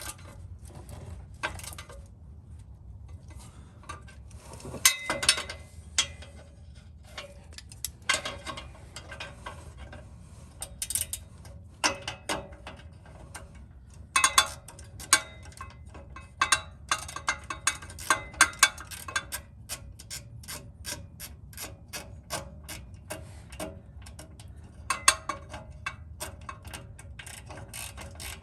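Ratchet wrench clicking in short runs of rapid ticks, with clinks of metal tools in between, as exhaust flange nuts are worked on and off.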